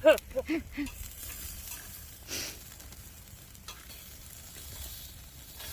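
Lamb fat sizzling and spattering on a grill over an oak-wood fire: a steady hiss with a couple of brief pops.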